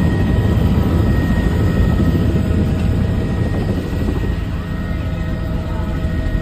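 Helicopter in flight, heard from inside the cabin: a steady, loud rotor and engine rumble with a faint, steady high whine above it.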